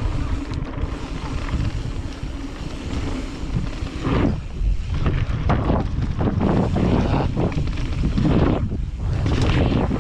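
Wind buffeting the microphone, a heavy rumbling noise that swells louder in gusts about four seconds in and again near the end.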